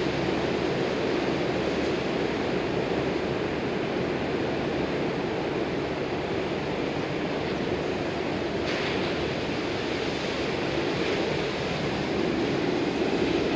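2008 Bullitt Mustang's 4.6-litre V8 with an axle-back muffler delete running steadily under a constant rushing noise. There is a short hiss about nine seconds in, and the sound grows a little louder near the end.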